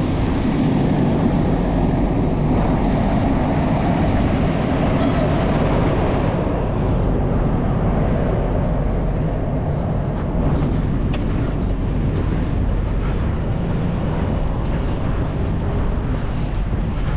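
Truck engine running steadily, a low rumble under a constant haze of road or wind noise.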